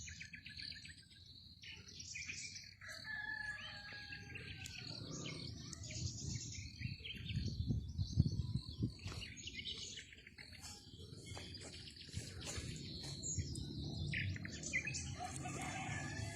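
Several birds singing and chirping in overlapping short calls and trills, over a low rumble that swells for a few seconds in the middle.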